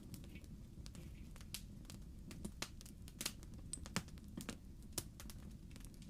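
Wood fire crackling in a fireplace: irregular sharp pops and snaps over a low, steady rumble of burning. The loudest pop comes about four seconds in.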